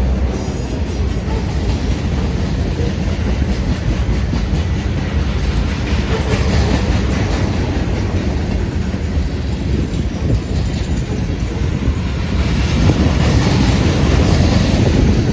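Train running past on the rails: a steady rumble of wheels and cars, growing a little louder near the end.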